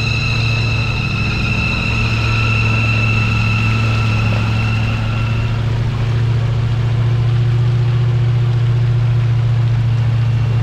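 Off-road 4x4 engine running steadily at a constant pitch, with a high-pitched whine over it that fades out about halfway through.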